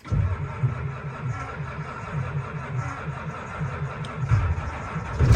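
A Ford 7.3-litre IDI V8 diesel being cranked by its starter on a cold start in about 20-degree cold. It turns over with a rhythmic chugging and is struggling to fire, then gets louder near the end.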